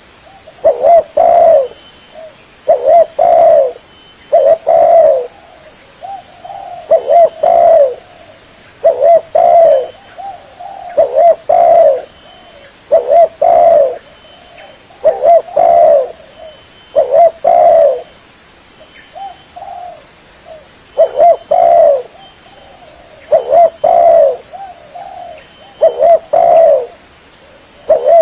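Spotted dove (tekukur) cooing: loud, short phrases of a few low coos repeated about every two seconds.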